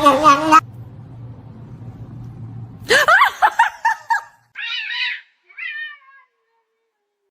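A cat meowing: a run of quick meows about three seconds in, followed by two shorter meows.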